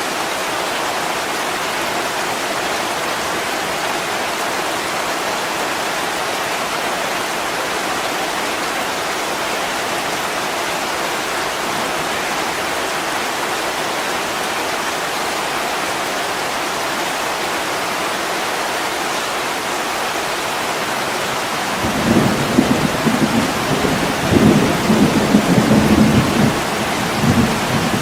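Steady heavy rain on a window, with a roll of thunder rumbling in several swells from about three-quarters of the way through to the end.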